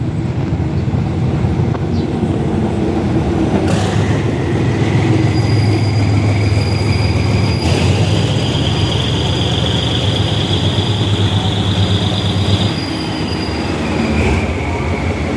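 Diesel-electric locomotive of a passenger train running past, its engine rumbling low and heavy, with steel wheels squealing on the rails: a high thin whine starts about four seconds in, jumps higher around eight seconds, then drops back and fades near the end as the rumble eases.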